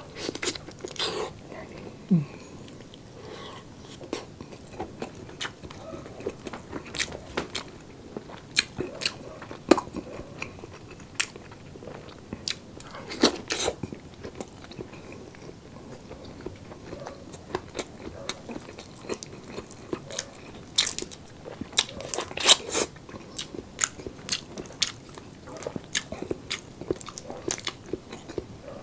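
Close-miked chewing and biting of roast chicken and shell-on shrimp: irregular sharp, crunchy clicks, with a few louder crunches about a third of the way in and again about three quarters of the way through.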